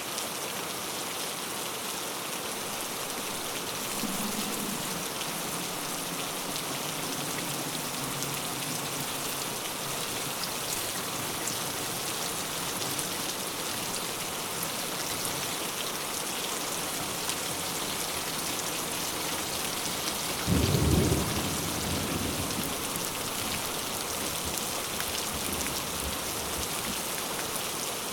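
Heavy rain falling steadily in an even hiss. A low roll of thunder comes in about four seconds in and fades, and a louder, closer thunderclap about twenty seconds in rumbles away over several seconds.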